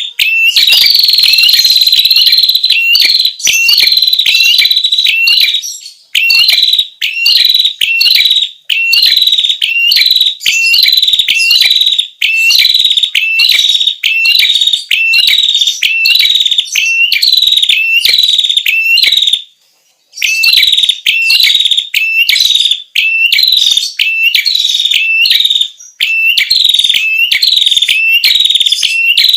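Prenjak kepala merah, a small songbird, calling in a loud, fast series of short, sharp, repeated chirps. It is a lure-call recording used to attract wild birds of its kind. The series pauses briefly about twenty seconds in.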